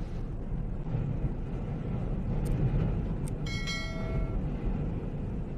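Tornado winds blowing hard against the microphone, a steady deep rumble. A few sharp cracks come through it, and a little past halfway a brief high whistling tone sounds for under a second.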